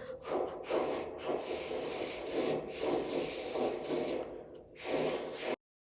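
Repeated rubbing strokes on a water-gallon jug, a scratchy hiss coming in uneven surges. It cuts off suddenly near the end.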